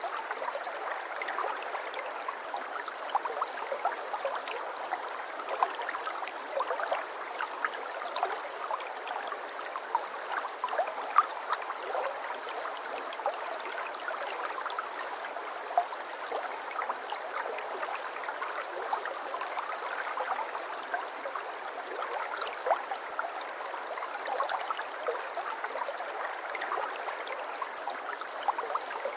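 Shallow brook babbling over stones, a steady gurgle full of small splashes and drips that never stops.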